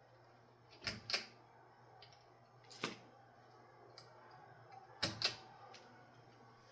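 Sharp clicks and taps of the ceiling fan light kit's shades and screws being handled and adjusted, about seven at irregular spacing, with a pair near the start and a cluster past the middle, over a faint steady hum.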